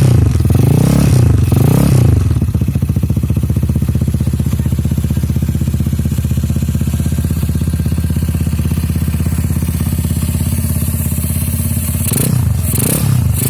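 Motorcycle with a Kawahara free-flow racing exhaust being revved: quick throttle blips that rise and fall in the first two seconds, settling to a steady idle, then more blips near the end.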